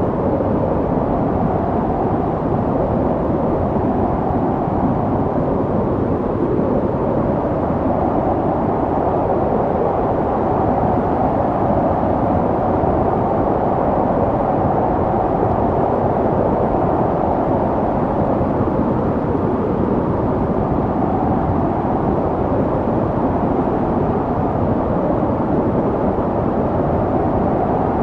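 Snowstorm wind blowing steadily: a dense, low rushing noise that swells and eases slowly, with no separate gusts or other sounds standing out.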